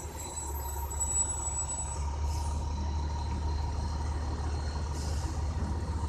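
Fire truck engine running with a low, steady rumble as the truck drives off. Two short hisses come about two seconds and five seconds in.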